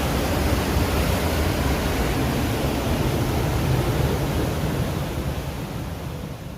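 Waterfall: a steady rush of falling water, fading out near the end.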